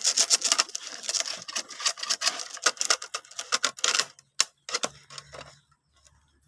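Rapid, irregular clicking and rattling of hard parts being handled, as the coconut grating machine is opened up to show its inside. The clatter thins out about four and a half seconds in, leaving a few single clicks.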